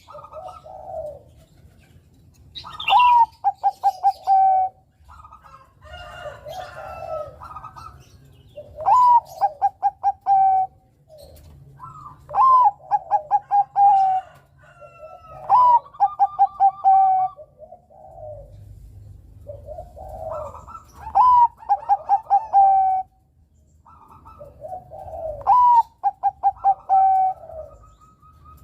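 Bangkok-type perkutut (zebra dove) singing: about six loud song phrases a few seconds apart, each a rising opening note, a quick stutter of short notes and a long held coo, with softer cooing in between.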